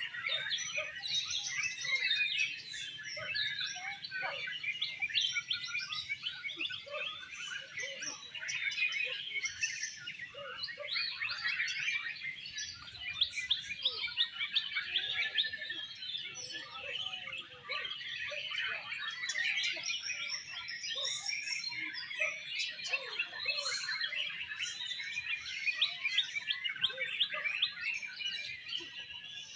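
Several oriental magpie-robins (kacer) singing at once: a dense, continuous chorus of quick chirps and whistled phrases.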